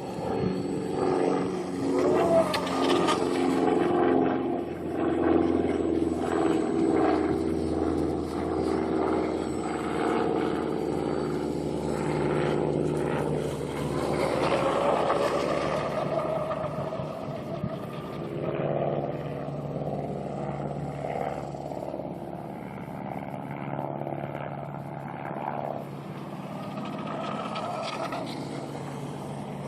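Electric RC tunnel-hull boat running on the water, its 1900kv brushless motor and propeller making a whine that shifts and glides in pitch as the boat speeds up, slows and turns.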